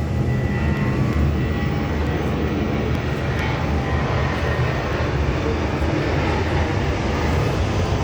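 Jet airliner's engines at takeoff thrust: a steady, loud rumbling jet noise, with a faint high whine that fades after about two seconds.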